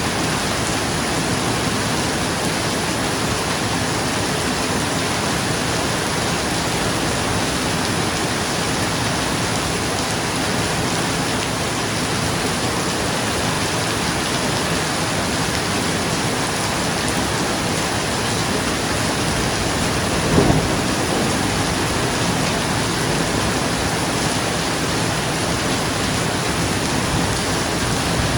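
Steady heavy rain on a roof, an even hiss of drops. About two-thirds of the way through comes one short, low crack of thunder.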